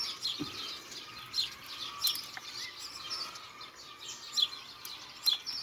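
Small birds chirping in quick, repeated short notes, with a few sharp clicks in between.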